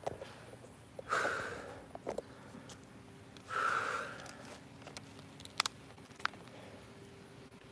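A man breathing out hard twice, about two and a half seconds apart, while working through diamond push-ups, with a few faint clicks later on.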